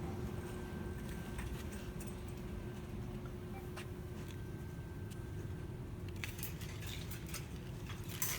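Steady low hum of shop ambience, with scattered light clicks and rattles that grow denser in the last couple of seconds.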